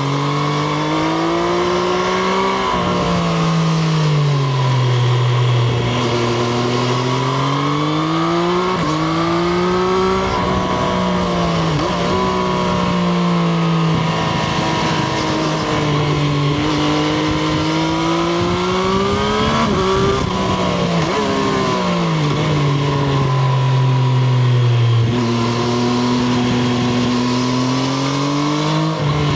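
Triumph Street Triple RS's 765 cc three-cylinder engine heard from onboard, its revs climbing and dropping over and over as the rider accelerates, shifts and rolls off, with a steady rushing noise underneath.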